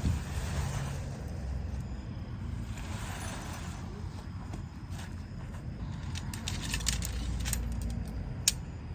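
Steady low rumble. From about six seconds in come a run of small clinks and clicks, with one sharp click near the end.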